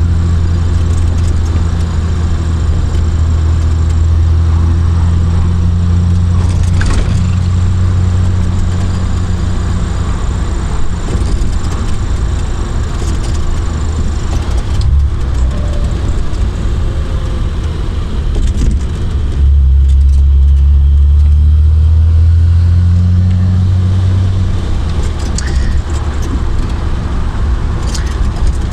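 Triumph Vitesse Mk2's 2-litre straight-six engine running as the car drives along, heard from the open-top car. Its note eases off about halfway through, then pulls harder and louder for about five seconds before settling back.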